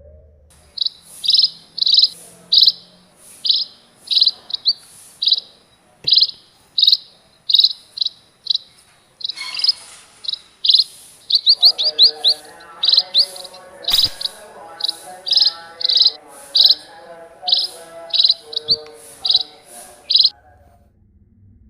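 Small birds chirping: one bird repeats short high chirps every half second or so, and from about halfway a second, lower chattering call joins in. A single sharp click sounds once in the middle.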